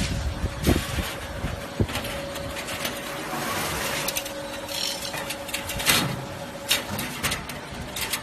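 Tube-bending machine at work on copper or aluminium tubing: a steady mechanical hum with a held tone through the middle, broken by sharp clicks and knocks.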